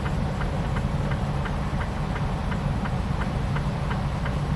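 Semi truck's diesel engine running with a steady low drone, and the tire chains on the drive tires clicking against the road about four times a second as the truck rolls.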